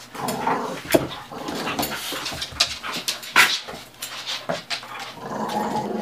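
Two pit bulls play-fighting: a busy mix of dog noises and scuffling, broken by sharp clicks and knocks, the loudest about a second in and at three and a half seconds.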